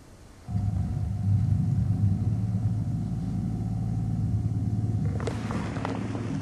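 A vehicle engine's low, steady rumble that cuts in suddenly about half a second in, with clicks and clatter joining it near the end.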